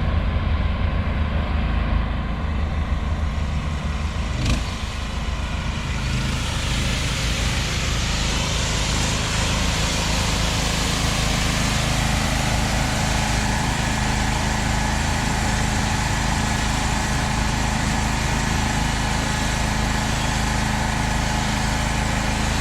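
An engine running steadily, most likely the car-wash van's generator, joined about six seconds in by a steady hiss of water being sprayed.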